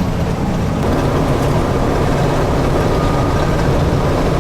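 Steady rumble of engine and road noise heard from inside a moving vehicle at cruising speed.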